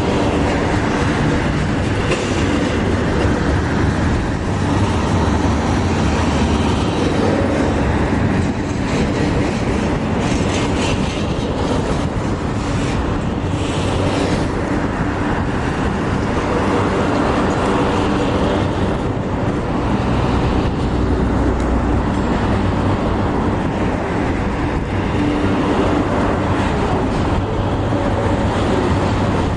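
Canadian National container train passing, its steel wheels running over the rails in a steady, loud rumble.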